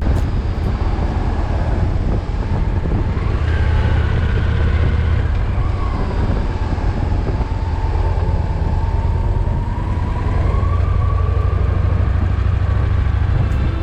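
Victory Vision touring motorcycle's V-twin engine running steadily on the road, a loud deep rumble under a steady wash of wind and road noise, with a faint tone slowly drifting in pitch.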